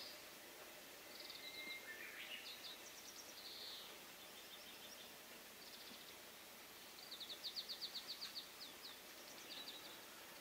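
Wild birds singing and chirping faintly over a steady background hiss, with short whistles and chirps; about seven seconds in, one gives a fast trill of a dozen or so notes lasting about a second and a half.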